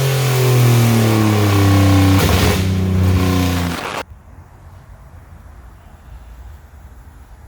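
Nissan 370Z's 3.7-litre V6 winding down from high revs, its loud exhaust note falling steadily in pitch for about four seconds, then cutting off abruptly to a low background rumble.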